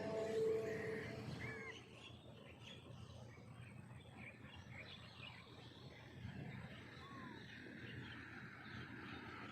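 Quiet outdoor background with a few scattered bird chirps. A steady humming tone fades out during the first two seconds.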